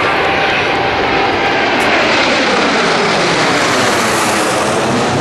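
Kawasaki T-4 jets of the Blue Impulse team passing by, loud turbofan jet noise that swells and then drops in pitch as the aircraft go past.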